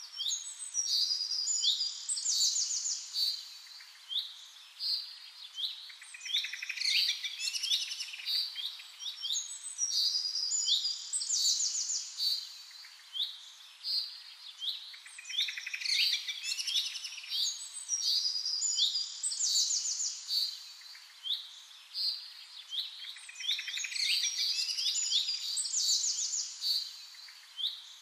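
Birdsong: many quick, high chirps and trills from small birds. The same stretch of song comes round again about every eight seconds, like a looped recording, and it begins suddenly.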